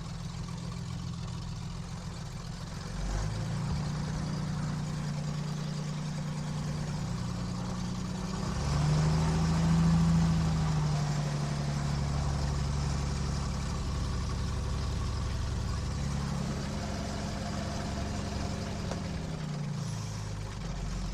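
KR2 light aircraft's piston engine running at low power on the ground. Its speed picks up about three seconds in, swells to a louder, higher note around the middle, then eases back down near the end.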